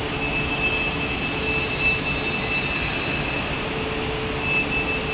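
E4 series Max double-decker Shinkansen rolling slowly into the station under braking as it comes to a stop. A steady rushing hiss carries a thin high whine that comes and goes, over a low hum.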